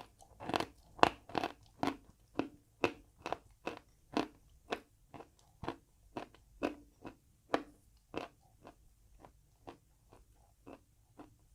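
A person chewing crunchy chalk close to the microphone, steady crunches about two a second that grow fainter and sparser toward the end.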